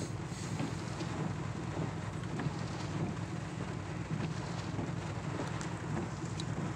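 Storm rain and wind on a pickup truck, heard from inside the cab: a steady low rumble with scattered ticks of raindrops striking the glass and body.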